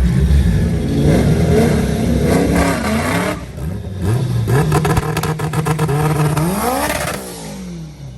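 Drag-racing car engines at full throttle down the strip, pitch climbing through the gears with a short break about three seconds in, then dropping in pitch and fading away near the end.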